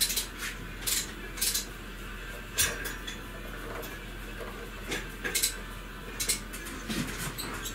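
Light, irregular clicks and clinks of small metal parts being handled and set in place while a gasket and carburetor parts are fitted on a small cultivator engine.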